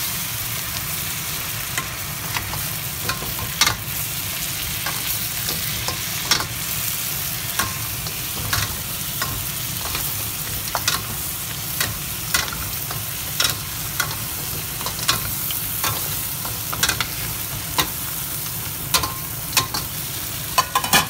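Lobster pieces sizzling as they sauté in butter in a metal wok, stirred and tossed with wooden spatulas: a steady sizzle broken by frequent irregular knocks and scrapes of the spatulas and shells against the pan.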